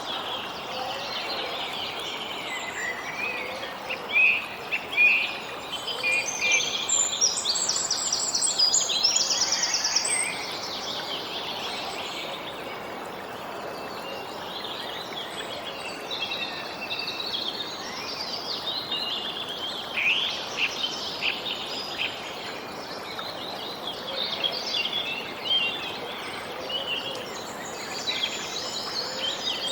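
Birds chirping and singing over a steady background hiss, with a dense run of quick calls and a fast trill in the first third and scattered chirps later.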